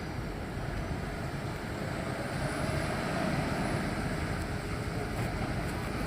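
Heavy double-trailer truck driving past: engine and tyre noise that swells to its loudest a little past halfway, then eases off.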